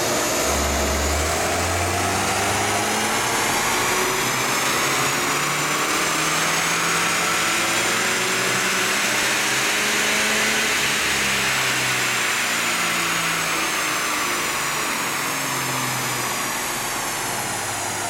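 Stock R56 Mini Cooper on a chassis dyno making a pull: engine and roller whine climb steadily in pitch for about ten seconds, then wind back down as the car coasts off, over the steady rush of the dyno cooling fan.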